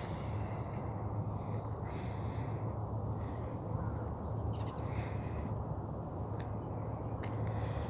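Several birds calling and singing, short chirps and whistled notes coming one after another, over a steady low rumble.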